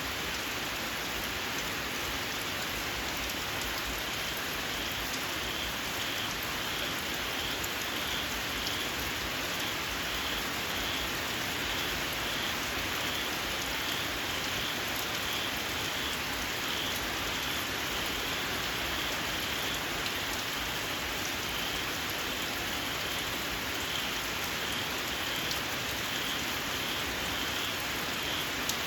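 Steady rain falling. From a few seconds in, a small frog (เขียด) calls over it in a long, even series of short high-pitched chirps, about two a second.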